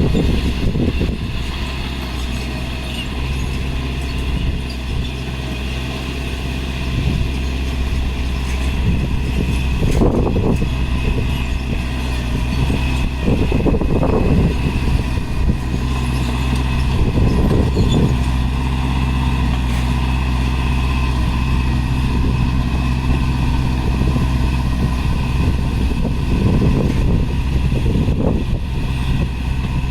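Heavy diesel earthmoving machinery running with a steady low engine drone, and a few brief louder surges of effort along the way.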